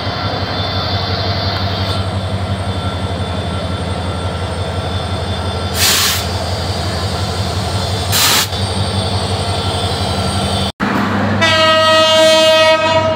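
Diesel locomotive of a departing train running past with a steady low engine hum, with two short bursts of hiss about two seconds apart. After a sudden cut, a train horn sounds one long held note as passenger coaches roll past.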